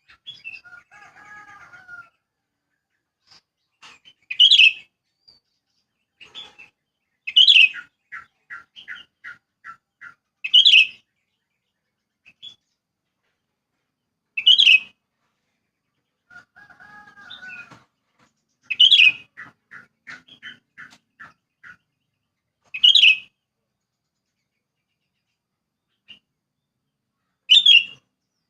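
Sooty-headed bulbul giving loud, sharp call notes every three to four seconds. Twice a call runs on into a quick string of six or seven short, even notes, and twice there is a lower, softer chattering.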